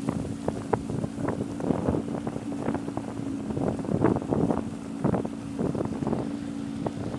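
Water slapping and splashing irregularly against a Laser dinghy's hull as it sails downwind, with wind on the microphone and a steady low hum underneath.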